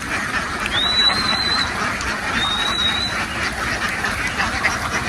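A flock of domestic ducks quacking together in a dense, continuous chorus of overlapping calls. A thin, high whistle-like tone sounds twice above it, about a second in and again in the middle.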